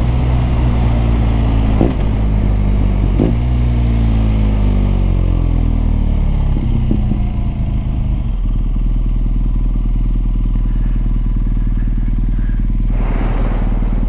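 BMW R nineT's boxer-twin engine and exhaust while riding, its pitch falling as the bike slows through the first half, with a few short sharp blips. From about halfway it settles into a steady, lower running note, and a brief rush of hiss comes near the end.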